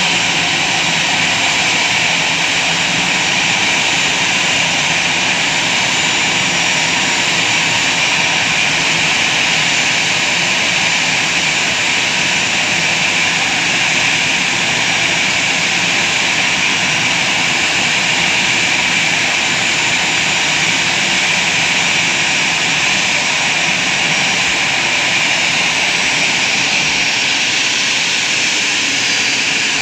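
Jet airliner engines running with a steady, unchanging whine and hiss that holds at one level throughout.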